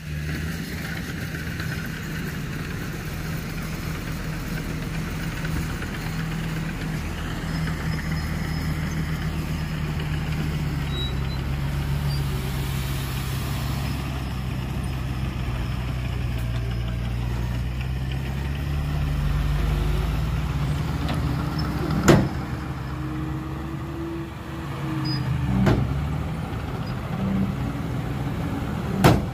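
Heavy diesel engine of a construction vehicle running at a steady working speed, its pitch rising and falling slowly. Several sharp metallic knocks come in the last third.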